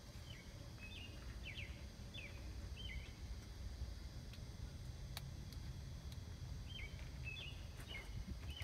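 Short bird chirps, each a quick sweep in pitch, in a run of about six over the first three seconds and another few near the end, over a steady low rumble.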